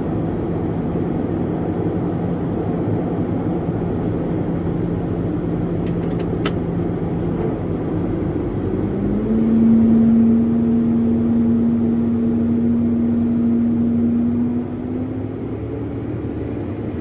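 Combine harvester running steadily. About nine seconds in the engine note rises and grows louder, holds, then drops back near the end.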